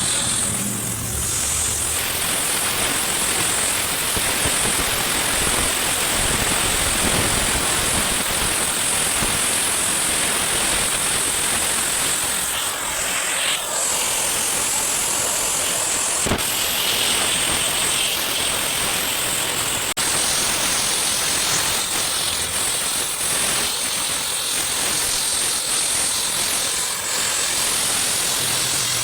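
Metal being cut on a truck's brake axle tube: a steady, loud noise with a strong hiss high up, running unbroken.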